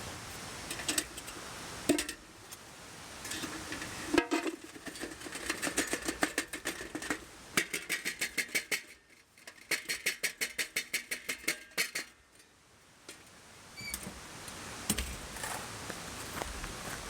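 Rapid, rhythmic clicking, about five clicks a second for several seconds, from camp gear being handled while packing up, over a steady rush of stream noise.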